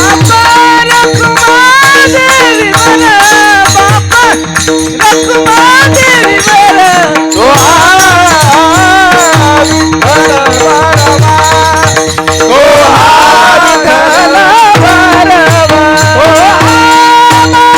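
Marathi devotional bhajan music: a pakhawaj drum beats a steady rhythm under a held drone, with rattling percussion. A high voice sings long, curving melodic runs without clear words.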